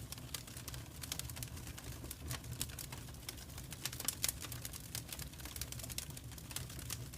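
Wood fire crackling in a fireplace: irregular sharp pops and snaps over a low, steady rumble of the burning.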